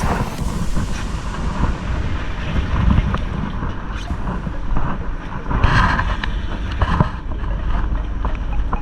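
Wind buffeting the microphone over a low, steady rumble aboard a fishing boat, with a few short knocks and a louder gust about six seconds in.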